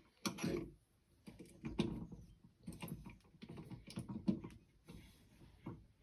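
Faint, irregular light clicks and knocks of metal tools and parts being handled, with no drill motor running.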